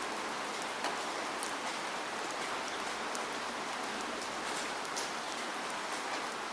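Steady rainfall, a continuous hiss of rain with scattered individual drops ticking sharply on a surface.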